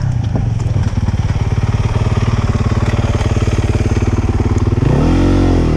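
Dirt bike engine idling with an even putter, then a short rev that rises and falls about five seconds in.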